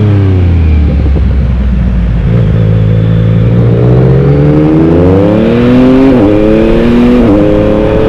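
Yamaha MT-09's 890 cc inline-three engine: revs fall off as the rider slows, then it pulls hard under acceleration with a rising note, broken twice by quick gear changes near the end before holding at higher revs.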